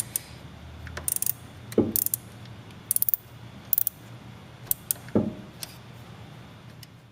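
A ratchet wrench clicking in short bursts, loosening the bolt on a car battery's positive terminal clamp.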